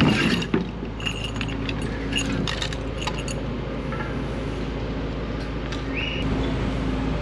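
An engine running steadily, with light metallic clinks and jangles over it.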